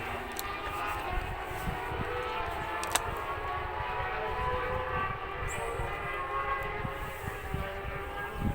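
A field of racing motorcycles' engines running and revving together on the starting grid: many overlapping, wavering engine notes, with a sharp click about three seconds in.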